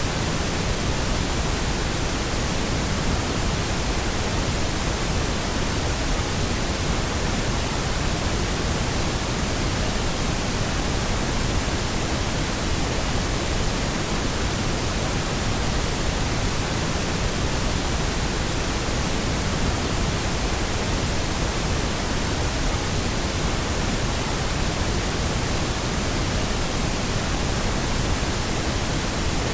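Steady synthesized pink noise: an even, constant hiss covering the whole range from deep rumble to high treble, with no changes or events.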